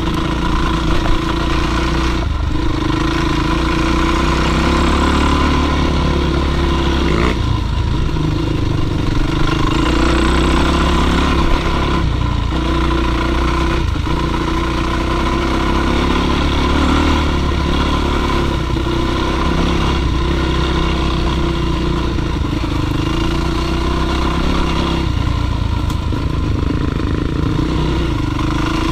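Dirt bike engine running steadily under load on a climb, its note dipping and picking up again several times as the throttle is worked.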